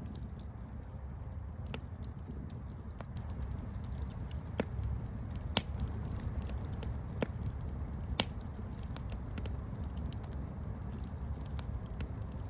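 Campfire burning with a steady low rumble and scattered sharp crackles and pops, the two loudest pops about five and a half and eight seconds in.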